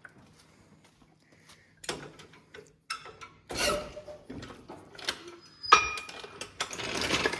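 Metal parts and tools being handled under a truck: irregular clanks and knocks, rasping scrapes, and one sharp metallic clang about halfway through that rings briefly.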